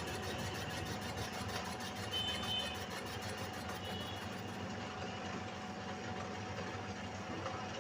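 A workshop machine running steadily, with a constant hum over a low rumble, during the machining of a motorcycle cylinder sleeve.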